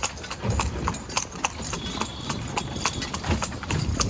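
Carriage horse's hooves clip-clopping fast on the road in a quick, steady run of sharp hoofbeats, with the horse pulling the carriage at speed.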